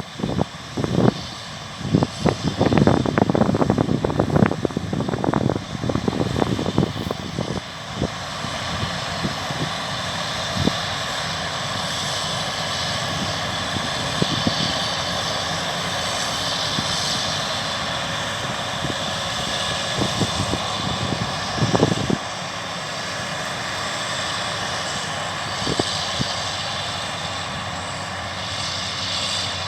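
Combine harvester at work, a steady mechanical drone. For the first several seconds wind buffets the microphone with irregular crackling gusts.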